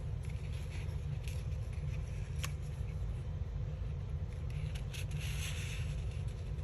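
Paper and craft supplies being handled on a work table: light scraping and rustling with a sharp click about two and a half seconds in and a brief scrape about five seconds in, over a steady low hum.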